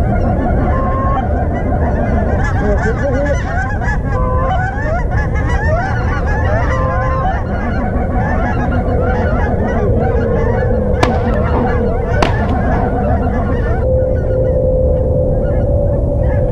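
A large flock of Canada geese honking continuously overhead, many calls overlapping, over a steady low rumble. Two short sharp cracks about a second apart come near the middle: shotgun shots at the passing geese.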